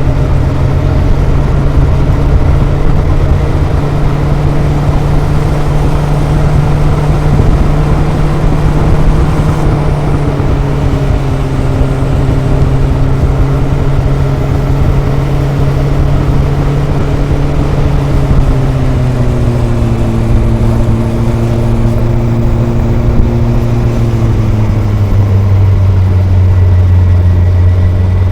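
Kawasaki ZRX inline four-cylinder motorcycle engine and exhaust under way, with wind and road rumble. The engine note holds steady, then drops in pitch in two steps in the last third as engine speed falls.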